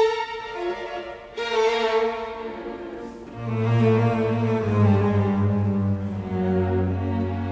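Music played on bowed strings: slow, held notes, with low cello-like notes coming in about three and a half seconds in beneath higher parts.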